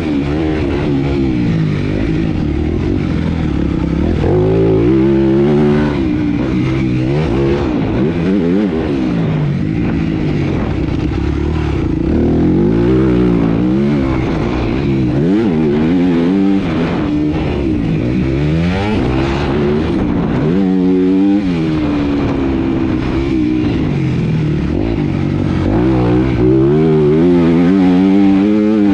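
Motocross bike engine revving hard and falling off again and again, its pitch climbing then dropping sharply between bursts, as it is ridden around a dirt track.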